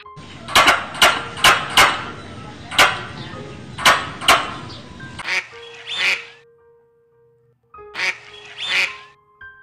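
A squirrel cracking sunflower seeds, a run of sharp crunchy clicks for about five seconds. Then a mallard duck quacks a few times.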